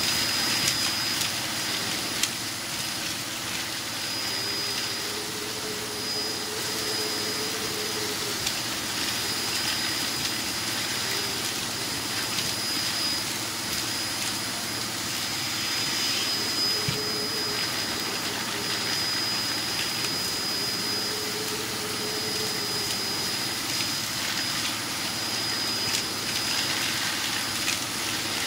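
Hoover Performer Pet HPT16 upright vacuum cleaner running steadily while sucking up fireplace ash, with a constant high whine over the rushing air. A lower hum swells and fades every few seconds as the airflow changes.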